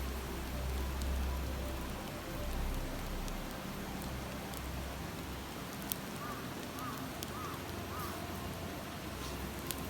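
Steady rush of a murmuring stream, with a few sharp crackles and pops from a wood campfire. About six seconds in come four short, high, rising-and-falling notes.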